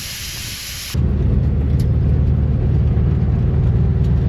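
A steady hiss for about the first second cuts off abruptly and gives way to the loud, steady low rumble of the 1958 VW bus's air-cooled flat-four engine driving on a dirt road.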